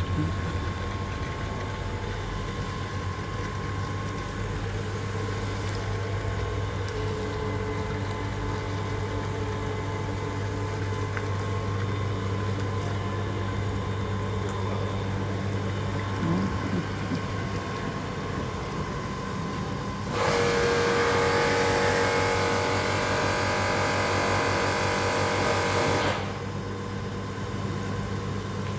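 Steady hum of a heater-core flushing machine's pump running, circulating water with cleaning chemicals through the heater core in reverse. About twenty seconds in, a louder rushing noise comes in for about six seconds and then cuts off suddenly.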